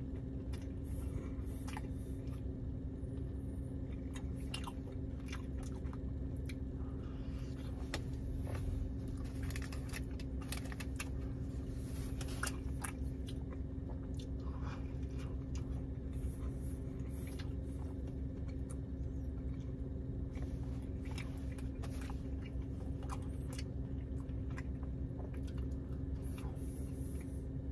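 Close-mouthed chewing and biting of a soft breakfast burrito, with many short wet smacks and clicks scattered through. Underneath runs a steady low hum inside the car.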